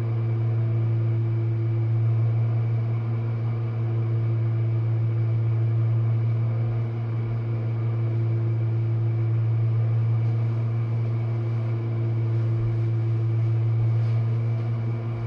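Jenn-Air dishwasher running mid-cycle: a steady, unchanging low motor hum.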